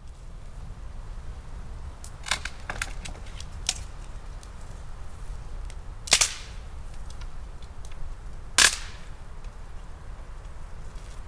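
A few sharp cracks or knocks. The two loudest come about two and a half seconds apart, each with a short ringing tail, and fainter ones come earlier, over a steady low rumble.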